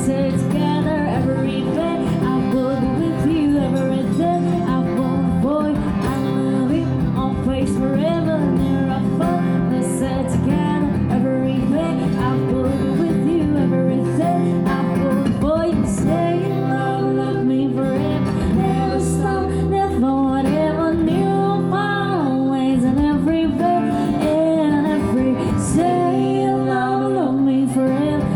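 A woman singing a song over acoustic guitar accompaniment, played continuously at a steady level.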